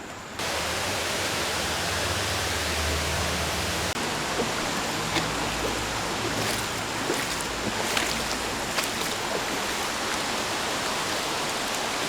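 Steady rush of falling water from a waterfall or stream, starting suddenly just after the start and holding at an even level, with a few faint clicks over it.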